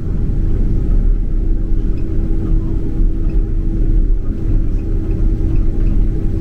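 Steady low cabin rumble inside a Boeing 767-300 airliner: engine and airflow noise with a steady hum running through it.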